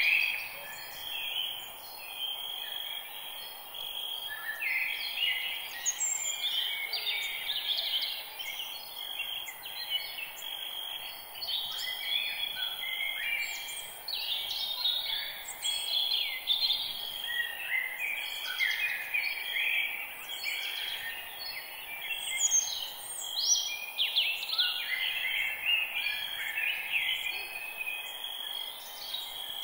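Many birds chirping and singing at once: a dense chorus of short, overlapping calls and trills over a steady background hiss.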